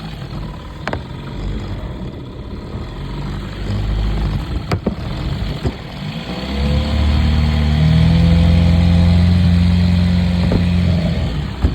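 1990 Mercury 9.9 two-stroke outboard motor idling unevenly, then revved up about six seconds in and held at a steady higher speed before dropping back near the end. The engine has carburetor problems.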